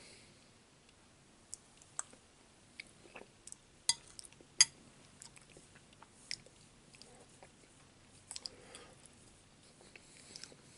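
A man chewing a mouthful of chicken and dumplings: soft, scattered mouth clicks and smacks, with two sharper clicks about four seconds in.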